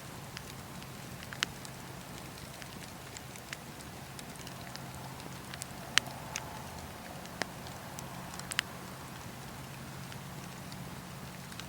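Campfire burning and crackling: scattered sharp pops and snaps of burning wood, the loudest about halfway through, over a steady low rumble of the flames.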